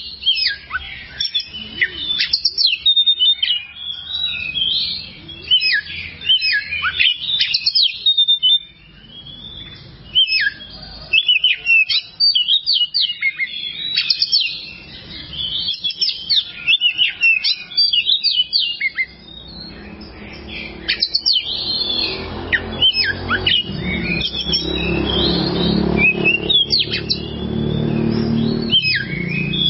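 Oriental magpie-robin (kacer) singing a rapid, varied song of sharp chirps and whistles, in bursts with short pauses. About two-thirds of the way through, a low hum rises underneath the song.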